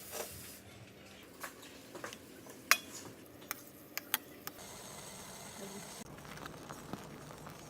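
Utensils and containers clinking and knocking as they are handled, with several sharp clinks in the first half. About halfway through comes a short steady whir lasting a second and a half.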